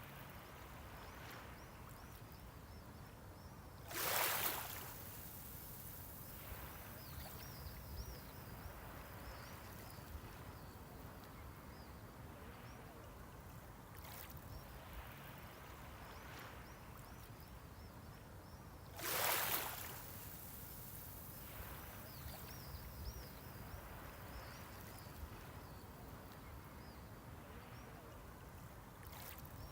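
Small sea waves breaking on the shore: two brief rushes about fifteen seconds apart, each followed by a softer wash as the water runs back, over a low steady sea hiss.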